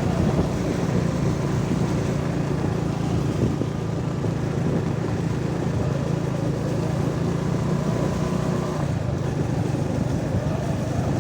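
A vehicle's engine runs steadily while travelling, with road and wind noise. The engine note shifts slightly about nine seconds in.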